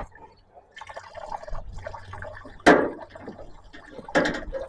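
Fuel running and dripping from a disconnected tractor fuel line into a drip pan, with handling noise of the fitting and one sharp knock a little under three seconds in.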